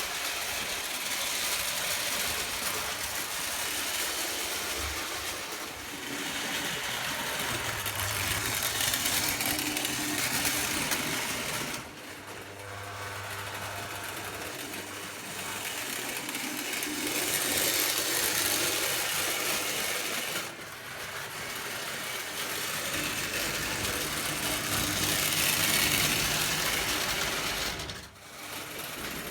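Small electric motor and gears of a prewar Lionel 0 gauge 700-series toy electric locomotive running, with a steady mechanical whir and a low hum. The level swells and fades several times, with brief drops about twelve, twenty and twenty-eight seconds in.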